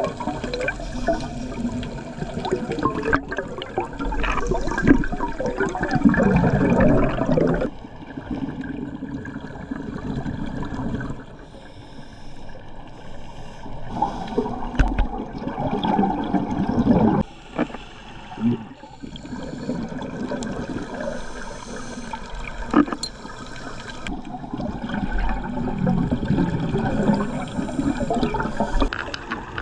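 Scuba diver's exhaled bubbles gurgling from the regulator underwater, in long swells about every ten seconds with quieter stretches of breathing between.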